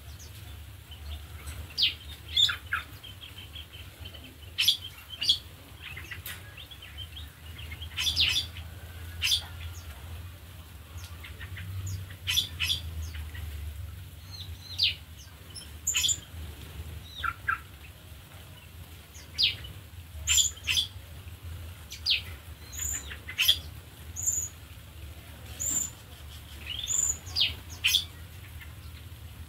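Small aviary birds chirping: many short, sharp chirps and quick whistled notes from several birds, coming every second or so, over a steady low hum.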